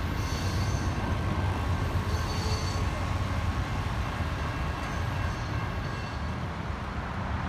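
Train rolling through a grade crossing: a steady low rumble with faint, steady high-pitched squeal tones above it.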